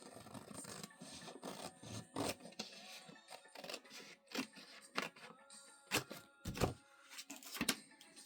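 Paper and card of a worn book cover being handled: rustling and scraping with a series of sharp clicks, the loudest about six to seven and a half seconds in, over quiet background music.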